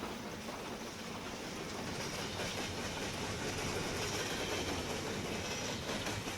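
Train of the steam-hauled doubleheader rolling past on the rails, a steady rumble of wheels and cars without clear exhaust beats.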